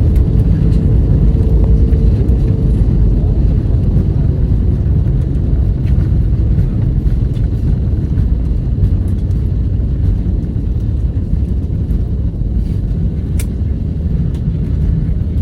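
Cabin rumble of an Airbus A321neo rolling on the ground after landing, its Pratt & Whitney geared turbofans and wheels giving a steady low rumble that eases off slightly. A faint whine fades away in the first few seconds, and there is a single click near the end.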